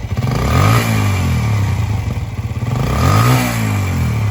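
Suzuki DR-Z125L's small single-cylinder four-stroke engine revved twice, the pitch rising and falling back to idle each time.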